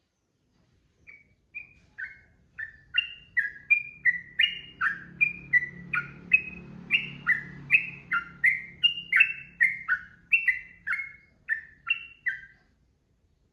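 Yellow-vented bulbul (trucukan) singing a long unbroken run of short, bright notes that jump up and down in pitch, about two to three a second. It begins about a second in and stops shortly before the end.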